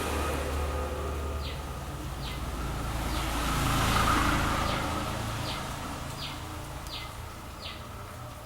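A vehicle passing by, its noise swelling to a peak about four seconds in and then fading, over a steady low hum. A short high chirp, falling in pitch, repeats about every 0.7 seconds from about a second and a half in.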